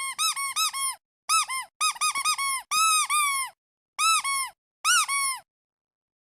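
Squeaky rubber duck toy squeezed over and over: quick bursts of short squeaks, each rising and falling in pitch, with a few longer squeaks in the middle. It stops about a second before the end.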